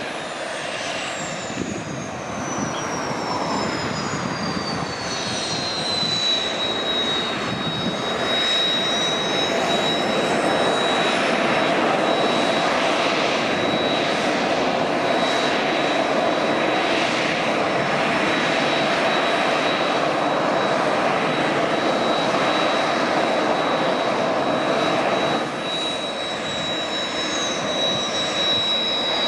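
Kawasaki T-4 jet trainer's twin IHI F3 turbofans running, a steady jet noise with a high whine. The whine falls in pitch over the first several seconds and then holds level. Another falling whine comes in near the end.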